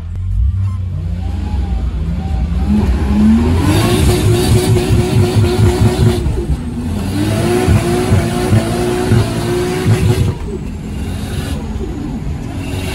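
Car engine at full throttle on a drag strip run. The revs climb, then hold with a rapid stutter, drop at a gear change about six seconds in and climb again. The throttle shuts off abruptly about ten seconds in.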